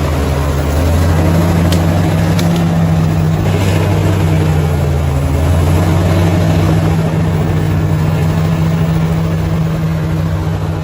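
Bulldozer diesel engine running steadily under load, a little louder from about a second in and easing off near the end, with a few faint clicks about two seconds in.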